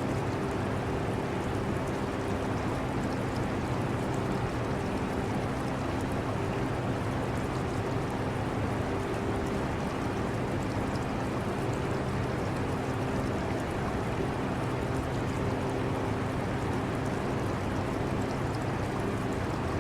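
Air conditioner running with a steady hum, mixed with the continuous water sound of an aquarium.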